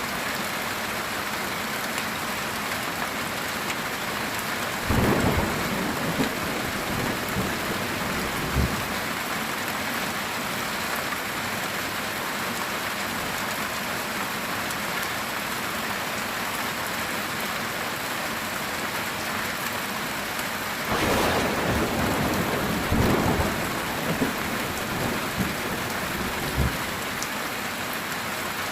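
Heavy rain drumming steadily on a metal tin roof. Thunder rumbles briefly about five seconds in, then rolls for several seconds later on.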